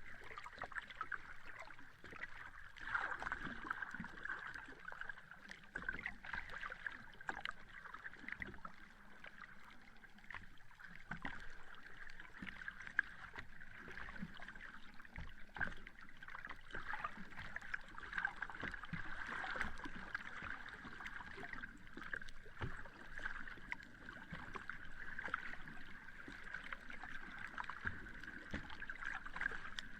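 Small sea waves lapping and washing at the shoreline: a continuous wash of water with many small crackles and pops, rising and falling irregularly.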